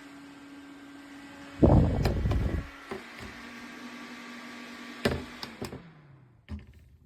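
Small battery-powered portable desk fan running with a steady hum and airy hiss. About two seconds in there is a loud, low rumbling burst, then a few sharp clicks about five seconds in, after which the motor's hum falls in pitch as it winds down and stops.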